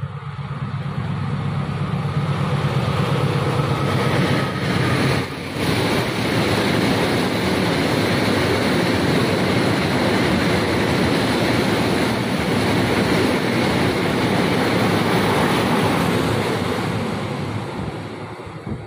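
A diesel-hauled freight train passing close by: the locomotive's engine hum for the first few seconds, then a long train of tarpaulin-covered wagons rushing past with steady wheel and rail noise that fades near the end.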